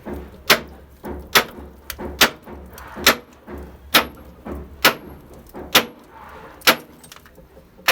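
Steady hand-hammer blows on metal, about one a second, each a sharp ringing strike.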